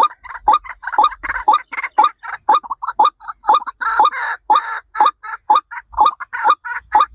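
Birds giving rapid short, clucking calls, about three or four a second, with a burst of harsher, noisier calls around the middle.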